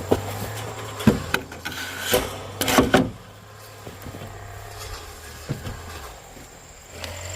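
Wood being handled: several sharp knocks and some scraping in the first three seconds, then a single knock, over a steady low hum.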